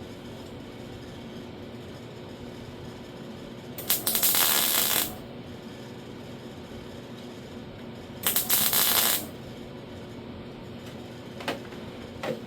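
Welder laying two tack welds on sheet-metal door skin, each a crackling burst about a second long, the second about four seconds after the first. Two short clicks follow near the end.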